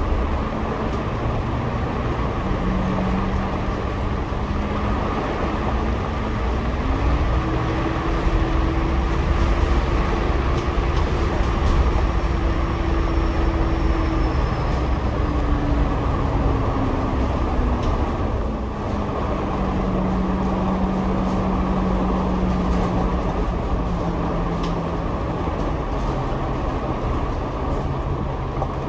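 Double-decker bus running, heard from the upper deck: a steady low rumble with a drivetrain tone that rises as the bus speeds up about a quarter of the way in, holds, then falls as it slows past the middle.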